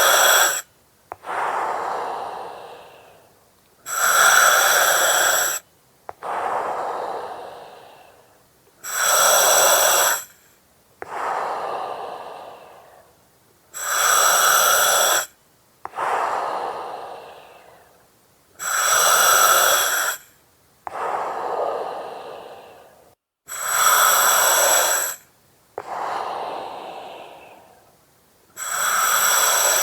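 Slow, regular breathing through an oxygen mask, about one breath every five seconds. Each breath is a short, loud hiss with a whistly edge through the mask's valve, followed by a longer breath that fades away.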